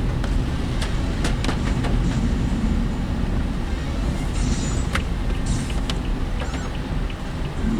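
Inside the cab of a work vehicle on the move: a steady low road and engine rumble, with loose parts rattling and knocking irregularly. A few short hissing swishes come about halfway through.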